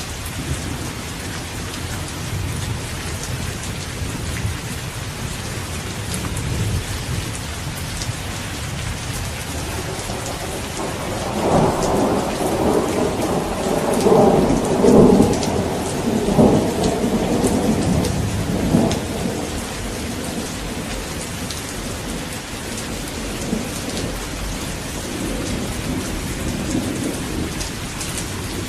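Steady rain falling, with a long roll of thunder that builds after about ten seconds, peaks, and rumbles on for several seconds before fading back under the rain.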